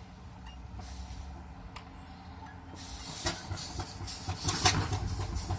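4-inch scale Burrell steam traction engine: a low steam hiss, then about halfway through its exhaust beats start up, chuffing about three to four times a second and growing louder.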